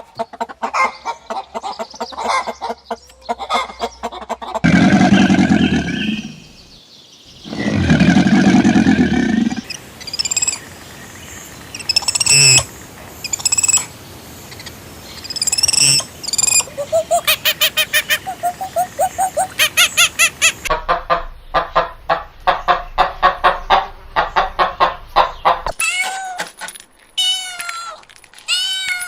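A run of different farm animal calls, one after another: two long, loud low calls, then high bird chirps, then rapid pulsed calls in quick succession, ending with a few arching cat meows.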